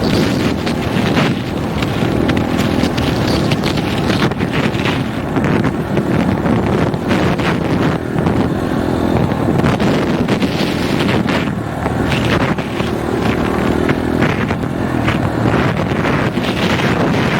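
Single-cylinder four-stroke dirt bike engine running under way, heavily buffeted by wind blowing on an unshielded microphone.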